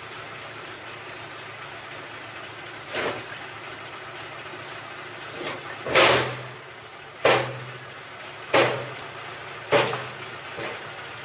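A run of heavy knocks, one about every second and a bit in the second half, the loudest about six seconds in, over a steady low hum.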